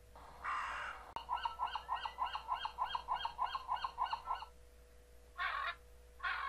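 Farm animal calls: a short sheep bleat, then a run of quick repeated calls at about four a second lasting some three seconds, then two more short bleats near the end.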